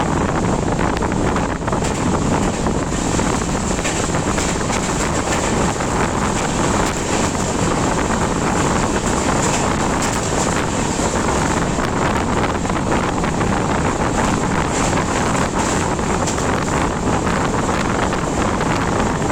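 Passenger train running at speed, a steady rushing noise with wind buffeting the microphone.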